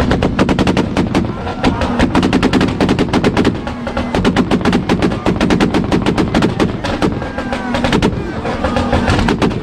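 Toyota Supra engine held on its two-step launch-control rev limiter, the exhaust firing a rapid, machine-gun-like string of loud pops and bangs, many a second.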